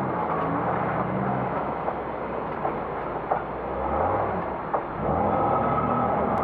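A Classic Range Rover's 3.9-litre V8 pulls under load in a race. The revs sag, then climb again twice near the end. A few sharp knocks and clatters from the vehicle working over rough ground are mixed in.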